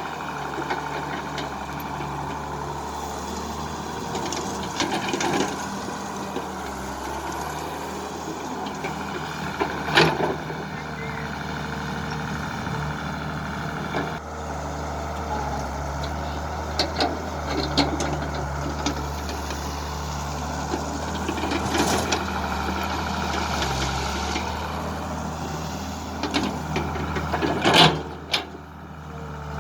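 Diesel engines of backhoe loaders and a dump truck running steadily, with a few sharp clanks and knocks from the machines working mud, the loudest near the end.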